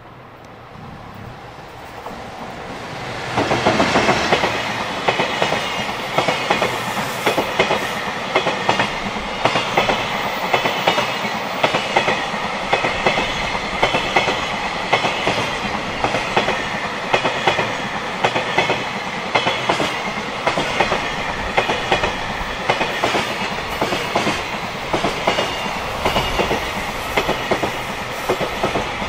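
JR Freight EF210 electric locomotive approaching, growing louder and passing close by about three and a half seconds in. A long string of Koki container flatcars follows, its wheels clattering steadily over the rail joints in an even rhythm.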